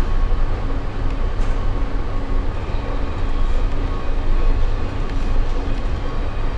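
Steady low rumbling background noise with no clear events, as loud as the narration around it.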